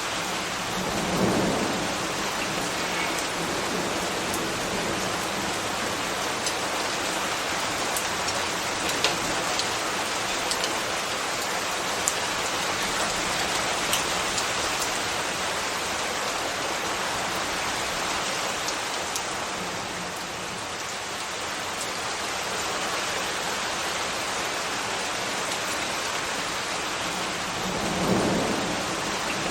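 Steady rain falling, with scattered sharp drip ticks and two brief low rumbles, one about a second in and one near the end.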